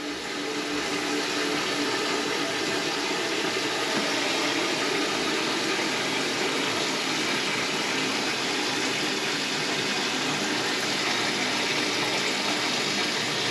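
Kitchen sink faucet running wide open, water pouring steadily into the sink basin as it fills.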